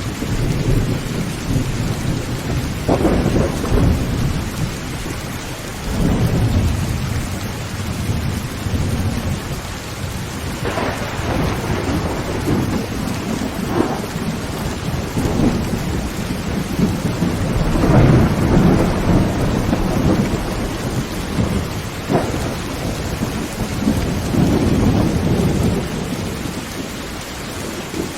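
Heavy rain beating steadily on a tin roof while thunder rumbles again and again, with several sharper cracks through the rolls.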